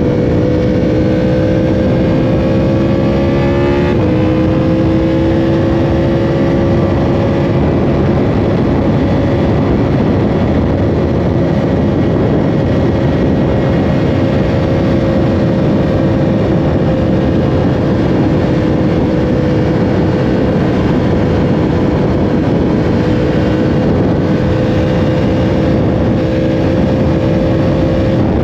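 Yamaha R1's inline-four engine pulling at high revs under riding speed. It climbs in pitch for the first few seconds, drops sharply at an upshift about four seconds in, then holds a fairly steady high note under heavy wind rush.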